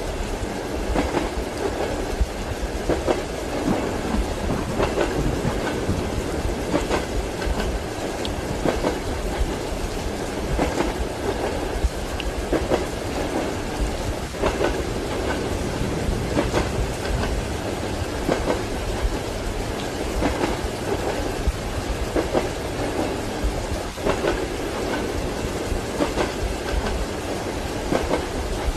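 Train wheels clacking over rail joints in a regular rhythm, a clack every second or two, over a steady running rumble of the carriage, mixed with the hiss of rain.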